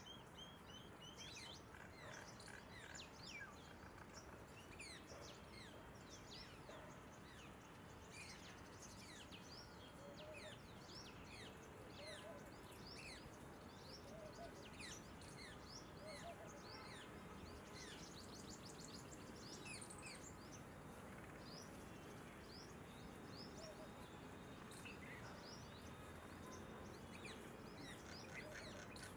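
Faint outdoor morning bird chorus: many short, high chirps from several small birds, scattered throughout over a steady background hiss.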